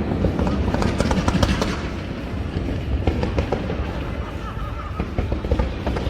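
Aerial fireworks going off in quick succession, sharp bangs and crackling, with music playing underneath.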